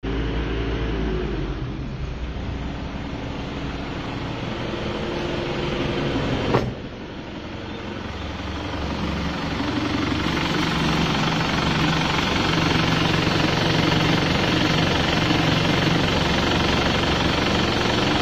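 Diesel car engine idling steadily, with a single sharp knock about six and a half seconds in; the engine sound grows louder after it and then holds steady.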